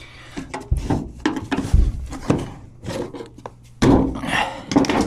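Irregular clattering knocks and scraping as leftover scraps of aluminum and copper and other job debris are pushed and gathered up by hand, with a louder cluster of knocks about four seconds in.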